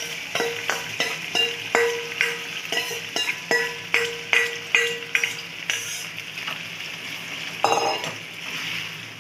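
Yogurt-marinated chicken sizzling as it drops into hot oil, while a steel spoon scrapes and taps the marinade out of a metal bowl: a quick run of clicks and knocks with a faint ringing tone for about six seconds. One louder short scrape comes about eight seconds in.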